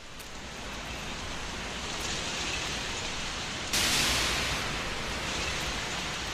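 Recorded rain sound effect at the start of a funk record: a steady hiss that builds, turns brighter and louder about three and a half seconds in, then eases slightly.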